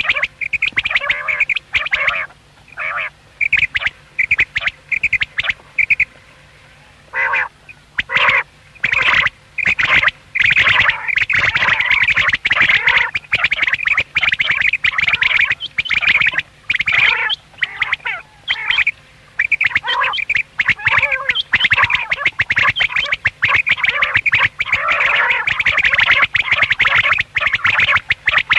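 Common quail calling in rapid, dense runs of short notes, with a brief lull about six to eight seconds in.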